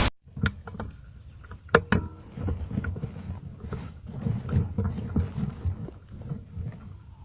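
Close handling noises: irregular clicks and knocks with low thumps and rustling, the sharpest knock about two seconds in.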